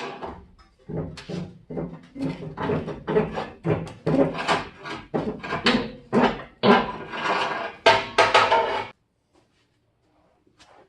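Rapid, irregular knocking and clattering that stops abruptly about nine seconds in.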